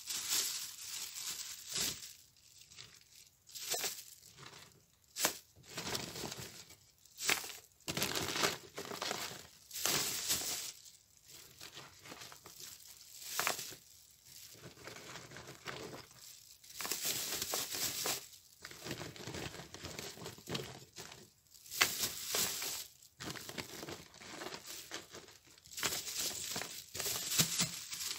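Thin plastic bags crinkling and rustling in irregular bursts as lumps of coal are packed into them, with occasional knocks of the coal lumps.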